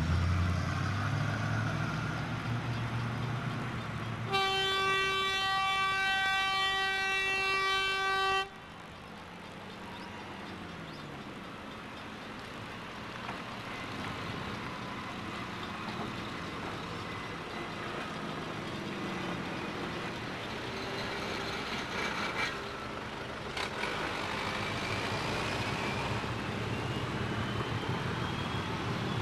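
A train's engine running, then its horn sounding one long blast of about four seconds with a brief break in it. Afterwards a quieter steady rumble of the train on the move, with a faint rising whine near the end.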